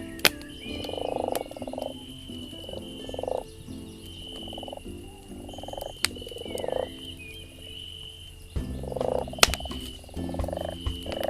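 Frogs croaking in short repeated bursts over a crackling campfire, with a few sharp pops from the fire, the loudest near the start and about nine seconds in. A high thin trill comes and goes throughout.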